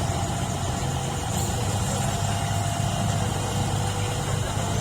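Diesel locomotive engine idling steadily: a low, even rumble with a faint steady whine above it.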